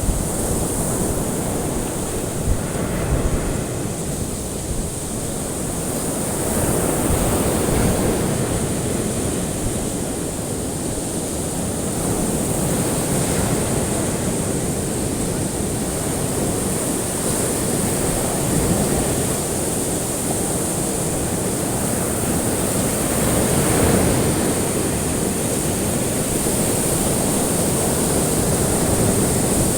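Ocean waves washing onto a shore, a steady surf that swells every five or six seconds, with a constant high hiss above it.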